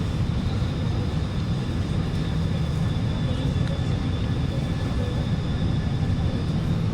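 Steady hum inside an Alstom Movia R151 train standing at an underground platform: its air-conditioning and auxiliary equipment running, heaviest in the low end, with a faint steady high tone above it.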